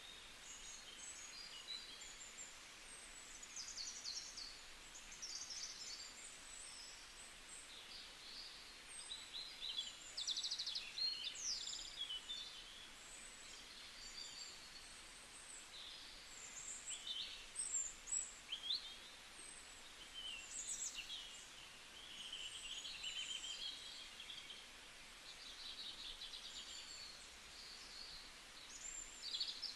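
Small wild birds chirping and calling, many short high chirps and whistles scattered throughout, over a faint steady hiss of outdoor background.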